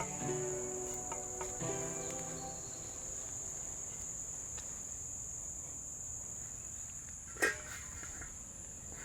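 Steady high-pitched insect trill, such as crickets in a garden, under soft background music that fades out in the first couple of seconds. A single sharp click sounds about seven and a half seconds in.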